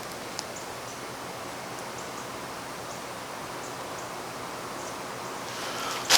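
Steady hiss of background noise with a few faint ticks, ending in one sharp click.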